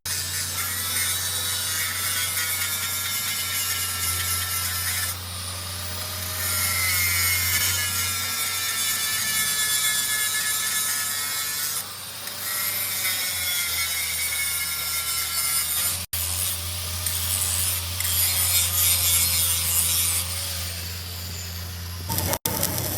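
Machine tool cutting metal: a steady electric motor hum under a wavering, squealing tone from the cut that comes and goes in long stretches, broken by two brief gaps.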